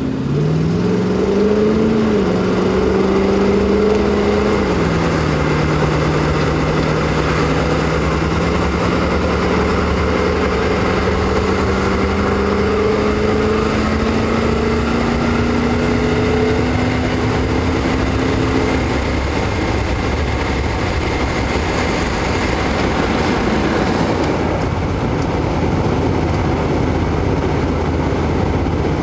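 A Cadillac Fleetwood's LT1 V8 accelerating under way. The engine note climbs, drops at an upshift about four seconds in, then climbs slowly again before giving way to steady cruising and road noise near the last third.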